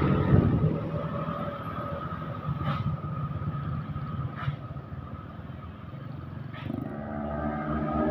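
Passing road vehicles: an engine's sound dies away in the middle and another engine grows louder as it approaches near the end, over a steady high-pitched tone.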